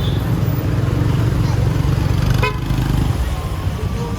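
Motorbike engine running close by in a busy street, a steady low rumble with voices around it, and a brief horn-like tone about halfway through.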